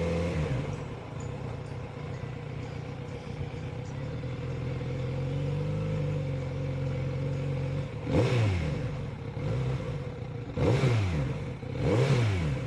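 Motorcycle engine idling steadily, then revved with three quick throttle blips, each rising sharply in pitch and falling back to idle, in the last few seconds.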